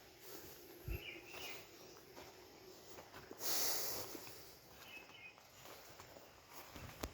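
Quiet outdoor ambience in a rural garden, with a few faint bird chirps about a second in and again around five seconds. A brief hiss about three and a half seconds in is the loudest moment, and a few soft knocks of footsteps are scattered through it.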